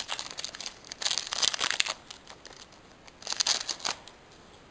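Foil Pokémon booster pack wrapper crinkling and tearing open in two bursts of rustling, one about a second in and another near the end.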